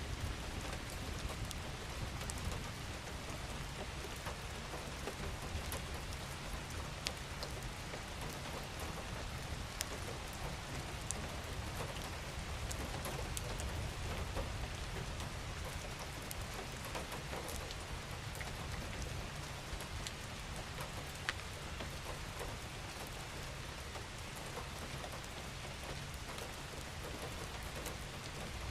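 Steady rain falling: an even hiss with scattered sharper drop ticks and a low rumble underneath.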